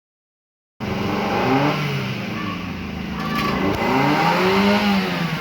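Motor vehicle engines running and revving, rising and falling in pitch; the sound cuts in suddenly about a second in.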